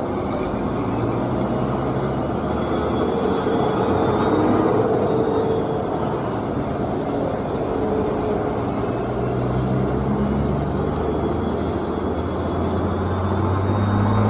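Old truck engine running under load on a steep rocky climb, a steady rumble whose pitch rises and falls slowly.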